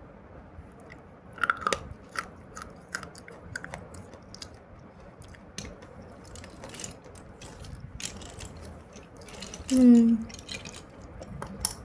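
Slate pencil being bitten and chewed: a string of sharp, gritty crunches and clicks. A short hummed voice sound comes about ten seconds in.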